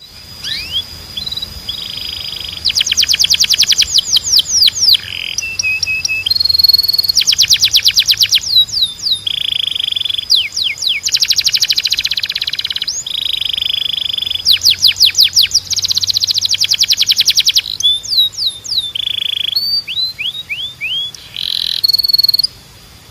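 A canary singing. Its song runs in phrases of very fast trilled repeated notes, held whistled tones and quick rising and falling sweeps, with brief gaps between phrases.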